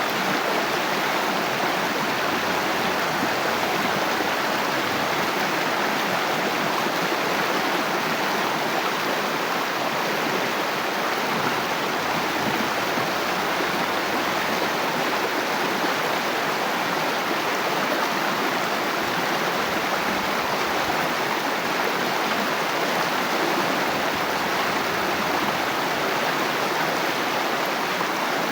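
Water flowing steadily, an even, unbroken rush with no changes.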